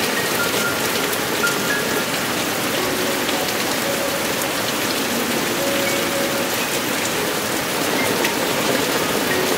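Heavy monsoon rain falling steadily and pattering on surfaces, with brief pitched plinks of drops scattered through it.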